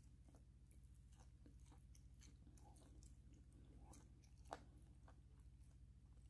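Faint chewing: a person eating, with soft mouth sounds and small clicks, one sharper click about four and a half seconds in, over a low steady hum.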